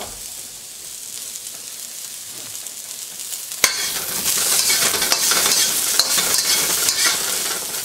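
Ginger slices and whole garlic cloves sizzling in hot oil in a wok on high heat. About three and a half seconds in, a metal wok spatula knocks against the pan and starts stirring them, and the sizzle gets louder, with light scraping and clatter.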